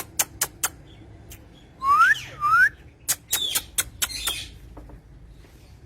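A green parrot gives two short rising whistles about two seconds in. Sharp clicks come before them, and clicking chatter follows.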